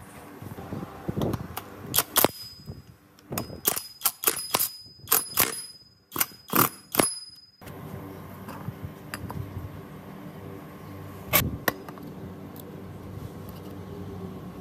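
Metal chainsaw parts and hand tools clinking against each other and the workbench: a quick run of sharp, ringing metallic clinks in the middle, then a couple more later.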